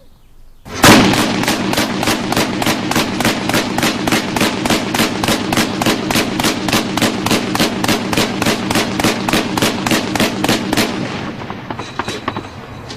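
Automatic weapon firing one long sustained burst of about four rounds a second for roughly ten seconds, then the echo dies away with a few scattered clicks.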